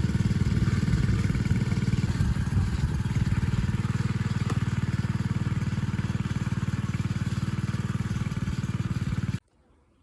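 A motor engine running steadily at an even speed, with a low pulsing rumble, cutting off abruptly near the end.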